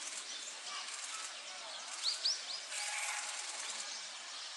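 A bird calls three quick rising chirps about two seconds in, over a steady background hiss of outdoor noise.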